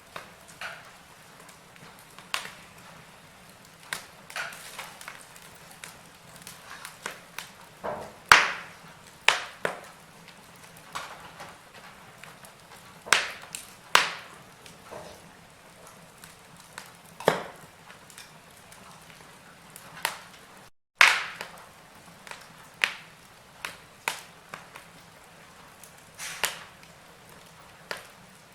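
Wood fire crackling in a fireplace: irregular sharp pops and snaps over a faint steady hiss. The sound cuts out for a split second about three-quarters of the way through.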